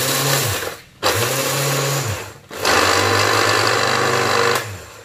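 Electric blender grinding chopped chillies, shallots, garlic and ginger into a spice paste, run in short pulses. There are three bursts, each with the motor winding up and then down. The last burst is about two seconds long and stops shortly before the end.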